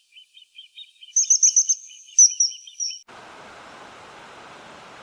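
Birds calling: a steady run of quick chirps, with two bursts of rapid shrill high notes over it. All of it cuts off abruptly about three seconds in, and a steady hiss follows.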